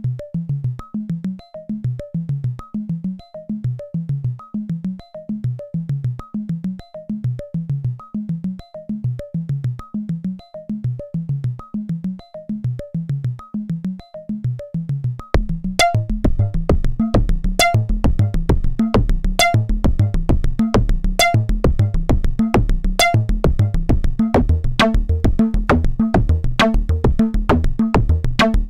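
Eurorack modular synthesizer: a Make Noise DPO oscillator sequenced by a Make Noise René, its notes shaped by an Ardcore envelope through a VCA, with delay added. It plays a repeating pattern of short, clicky notes; about 15 seconds in, a deep bass layer joins and the sequence gets louder and denser.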